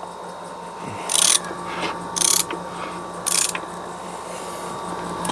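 Metal parts being worked by hand: three short rasping strokes about a second apart, over a steady low hum.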